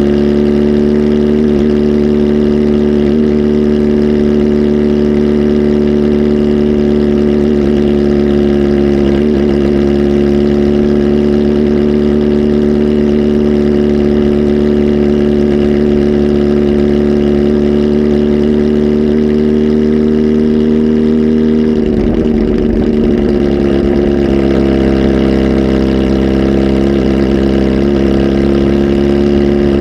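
Kawasaki Z H2 SE's supercharged inline-four, flash tuned and on a full exhaust, running loud at a steady held engine speed; about 22 seconds in the note wavers and shifts as the revs change slightly.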